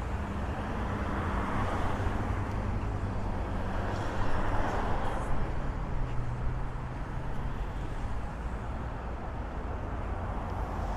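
Road traffic on a busy street: a steady noise of cars and tyres with an engine hum underneath, swelling twice in the first half as vehicles go by.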